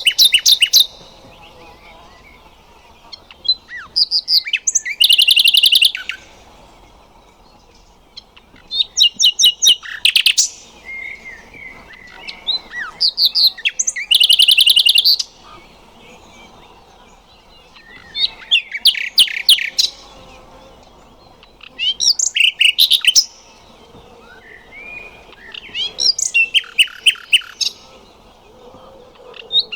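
Nightingale singing: short song phrases every few seconds, each a fast run of rapidly repeated notes and trills, with brief pauses between phrases.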